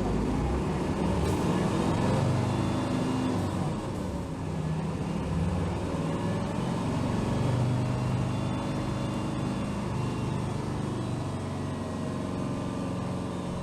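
Diesel engine of a 2007 Hino Rainbow HR city bus (BDG-HR7JPBE) running under way, its note rising in the first few seconds and then shifting up and down with speed.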